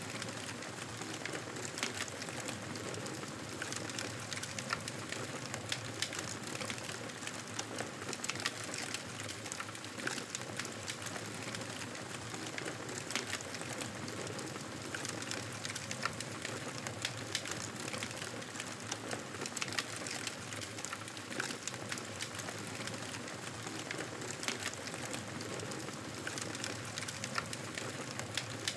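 Campfire burning: wood crackling and popping in irregular sharp snaps over a steady hiss of the flames.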